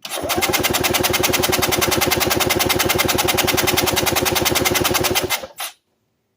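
1985 EZ-GO golf cart's Robin two-stroke engine cranked over by its starter with the throttle wide open, a fast, even beat that stops a little over five seconds in. The engine is showing only about 50 psi on a compression test, low compression that points to worn piston rings, a head gasket or a valve.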